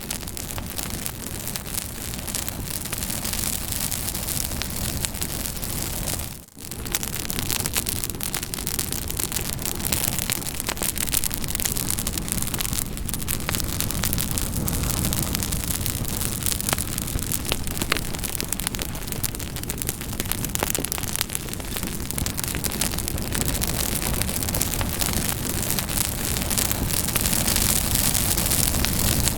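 Campfire burning, with dense crackling and popping over a steady hiss. The sound drops out briefly about six seconds in, then carries on as before.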